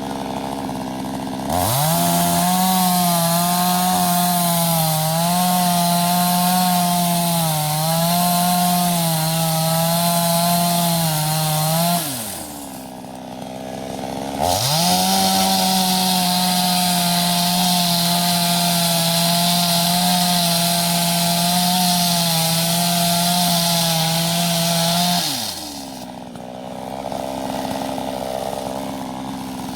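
Two-stroke chainsaw revving up from idle and running flat out for about ten seconds with a wavering pitch, dropping back to idle, then revving up for another ten-second run and falling back to idle near the end.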